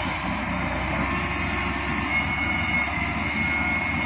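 Heavy diesel engine of the bulldozer-loading machinery running steadily with a deep rumble; a thin high whine comes in about halfway through.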